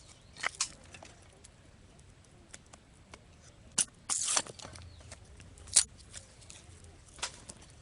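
Dry firewood being split by hand: a few sharp cracks and a short crunching tear of wood fibres about four seconds in, with the loudest crack near six seconds in.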